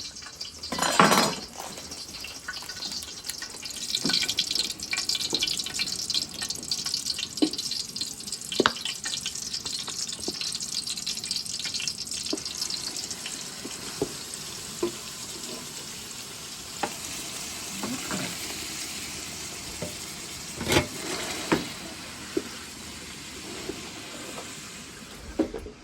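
Kitchen cooking sounds: a steady hiss that is strongest in the first half and fades later, with scattered clinks and knocks of pots and utensils.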